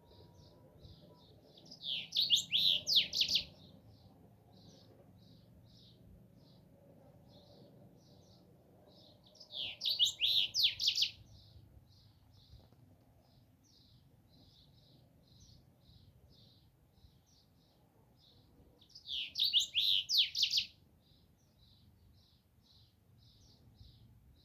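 Songbird singing three short, loud phrases of rapid high notes, about eight seconds apart, with faint steady chirping of the same pitch repeated a few times a second in between.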